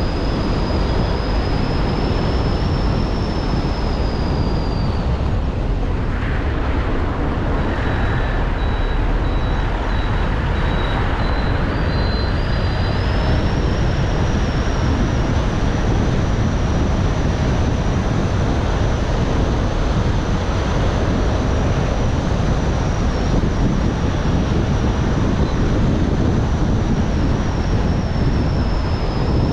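Car driving on a road: steady engine and tyre road noise. A thin high whine runs over it, fading out about five seconds in and returning a few seconds later.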